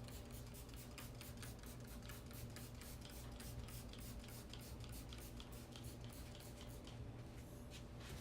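Trigger spray bottle of all-purpose cleaner squirted in a fast run of short sprays, several a second, stopping near the end, over a steady low hum.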